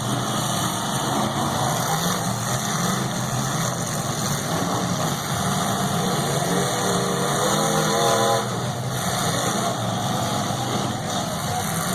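Engines of several full-size demolition derby cars running loudly together in a steady, rough drone. A brief wavering pitched tone rises above it about two-thirds of the way through.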